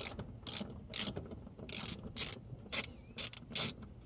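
A 3/8-inch-drive ratchet with a socket clicking through repeated short strokes, a little over two a second, backing out a loosened bolt.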